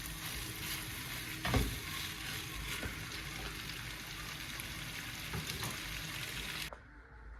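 Steady hiss with scattered clicks and knocks, the loudest about one and a half seconds in. The hiss cuts off abruptly near the end.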